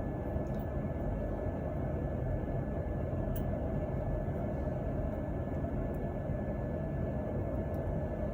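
Steady machine noise with a faint constant high whine, unbroken, with a few tiny clicks.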